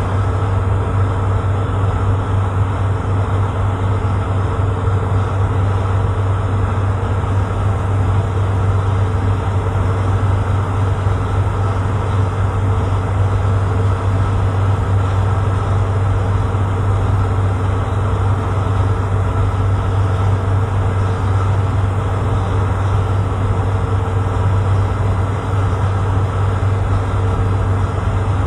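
Tugboat engine running steadily under load: a loud, even low drone that does not change.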